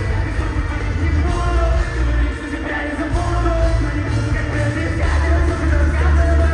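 Live rock band playing loudly, with singing over heavy, steady bass.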